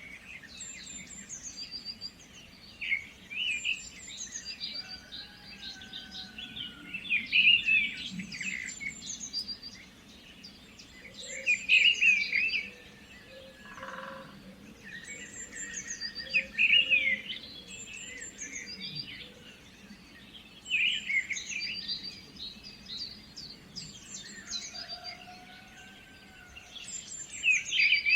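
Songbirds singing: bursts of quick chirps and trills every few seconds, with a few soft drawn-out whistles, over a faint steady hiss.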